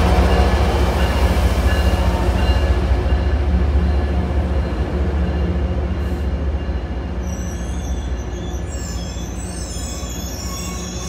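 MBTA HSP46 diesel locomotive running with a deep, steady engine hum as the commuter train moves along the platform, slowly fading. From about seven seconds in, a high-pitched wheel squeal from the train rises over it.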